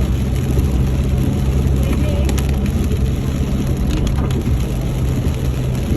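Vehicle driving, heard from inside: a steady low engine hum and road noise, with a few short knocks or rattles.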